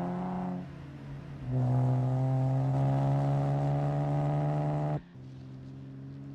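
Car engine sound from a film car chase, running at high revs with a steady held note. It dips briefly, comes back louder, then drops off suddenly near the end to a quieter steady engine note.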